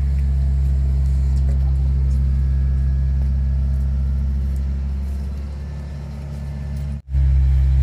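Steady low mechanical hum, like an engine running, broken by a sudden drop-out near the end.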